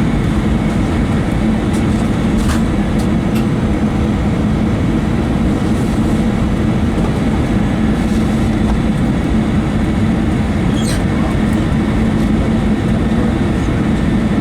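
Steady cabin roar inside an Airbus A321 on approach: engine and airflow noise with a constant low hum, and a few faint clicks.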